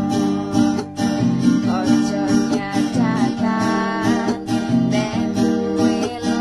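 Music led by a strummed acoustic guitar, with a gliding melody line over the chords.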